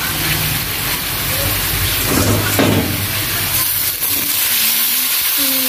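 Onions, whole spices and bay leaves sizzling in hot oil in a wok, with a wooden spatula scraping as it stirs. About four seconds in, raw chicken pieces are tipped in from a plate and the frying hiss carries on.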